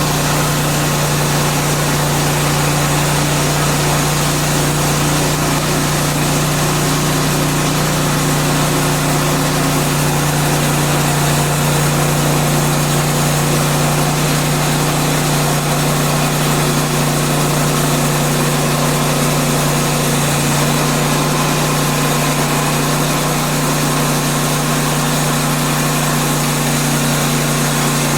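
Woodland Mills portable bandsaw mill running steadily under its gas engine, with the band blade sawing a beetle-killed pine log: a constant loud hum under a dense hiss.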